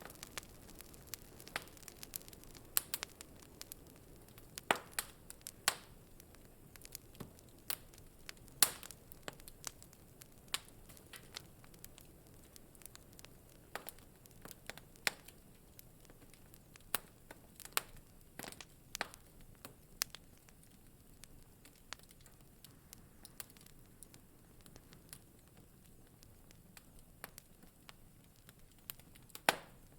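Wood fire crackling in a fireplace: irregular sharp pops and snaps over a soft low hiss, the loudest pop about a third of the way in.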